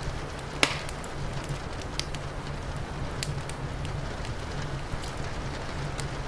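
Wood fire crackling with scattered sharp pops, one loud crack about half a second in, over a steady hiss of rain and a low continuous rumble.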